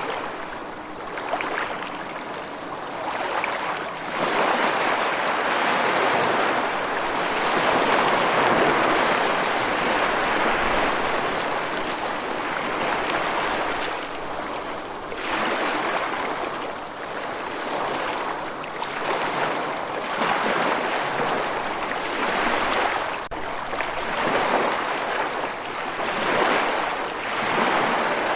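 Rushing water, a dense steady wash that swells and fades every several seconds.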